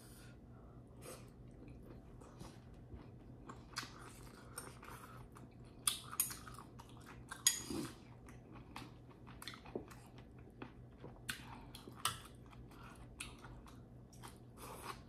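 Close-up chewing and wet mouth sounds of a person eating pasta, made up of many short, scattered smacks and clicks, a few louder ones about six and seven and a half seconds in.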